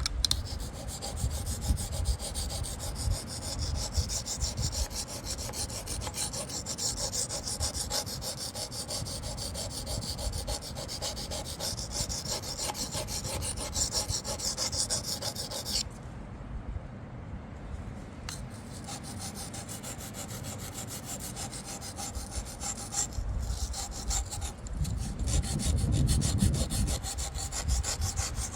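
Steel knife blade rubbed in rapid repeated strokes across a Wästikivi sharpening stone, honing a dull edge. The rasp drops away for a couple of seconds about halfway through, then resumes.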